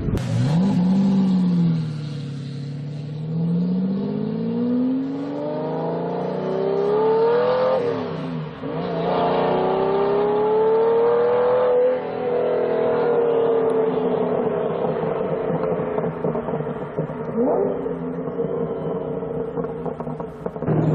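Lamborghini Diablo V12 engine accelerating hard. Its pitch climbs for several seconds, drops sharply at an upshift about eight seconds in, climbs again, then eases off and slowly falls.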